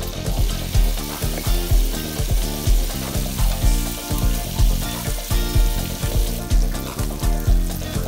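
Spice and onion paste sizzling as it is poured into hot oil in a frying pan and stirred with a spatula, under background music with a steady beat.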